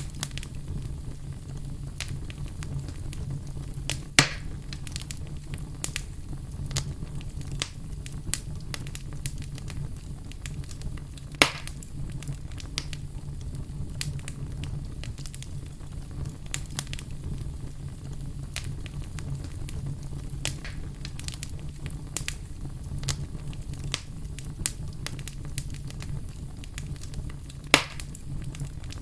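Fire crackling: a steady low rumble under a constant scatter of small crackles, with three louder sharp pops spread through it.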